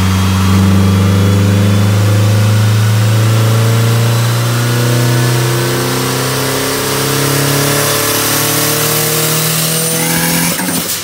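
Turbocharged Mitsubishi Eclipse DSM 4G63 four-cylinder running under load on a chassis dyno. The engine holds a fairly steady note while a faint high whine slowly rises, and the sound drops off sharply just before the end. The engine is on a restrictive base map that, by the owner's account, capped it around 5,500–6,000 rpm and kept it from building boost.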